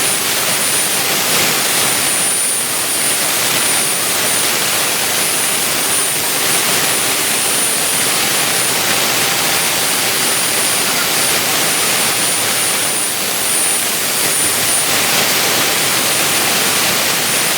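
Vertical 3-axis CNC milling machine running while it cuts, a steady loud hiss with a thin high whine held through it.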